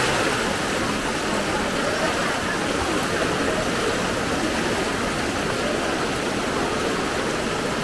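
Strong floodwater rushing along a street, a steady, even rush of water noise.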